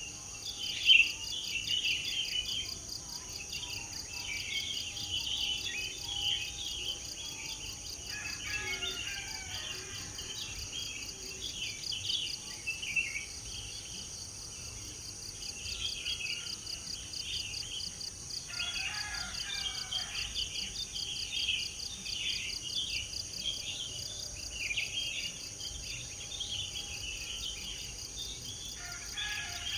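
Songbirds chirping and singing busily over a steady, high, pulsing insect chorus, with a lower call breaking in three times.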